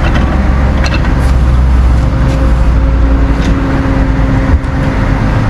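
Vehicle engine running steadily with a strong low hum and a few light clicks.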